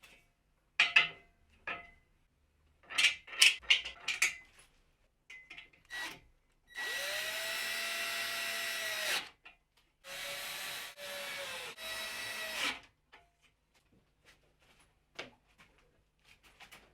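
Handheld electric drill running in short trigger bursts: one of about two and a half seconds, then three shorter ones, the motor's pitch rising as each starts and falling as it stops. Several sharp knocks and clicks of handled wooden parts come first.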